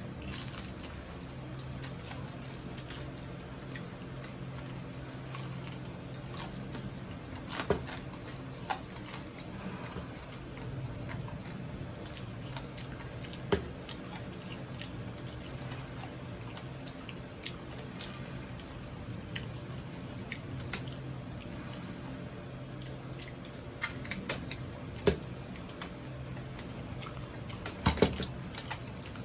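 Close-up mukbang eating sounds: a person chewing and biting crispy deep-fried pork knuckle, with a few sharp crunchy clicks scattered through, over a steady low hum.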